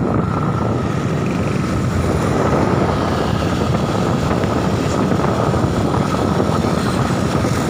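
Strong wind buffeting the microphone in a loud, steady rumble.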